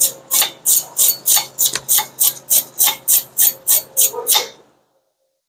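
A hand brush scrubbing the brake caliper mounting bracket in quick back-and-forth strokes, about three a second. The strokes stop about four and a half seconds in.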